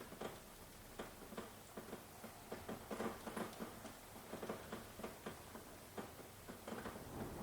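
Rain falling in separate drops that tap irregularly on a hard surface, over a faint hiss.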